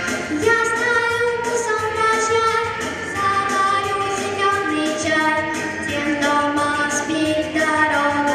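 A female voice singing a song, holding long notes over a backing track with a steady beat.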